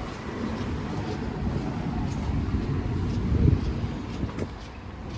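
Road traffic passing on a city street: a low, steady rumble that swells briefly about three and a half seconds in, with a sharp click shortly after.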